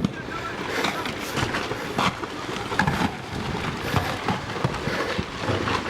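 Rockfall on a volcano slope: loose rocks tumbling and clattering down, a dense, irregular rattle of many small impacts.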